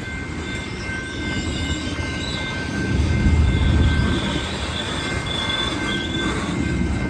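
Coal train cars rolling past with a steady low rumble and a high, wavering squeal from the wheels; the rumble swells a few seconds in.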